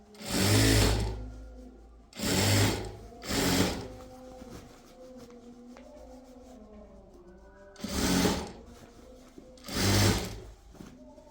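Sewing machine stitching in five short runs of about a second each, stopping and starting between them.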